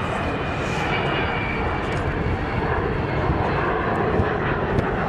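Fixed-wing aircraft engine running in a steady, continuous drone, with a faint high whine that fades out about two seconds in.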